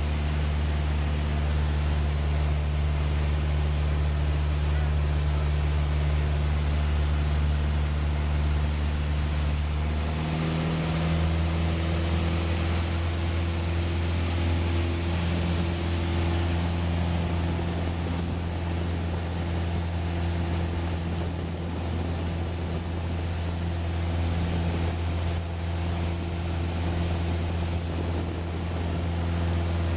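Small plane's piston engine running steadily with an even drone; about ten seconds in its pitch steps up slightly and holds as the engine speed rises.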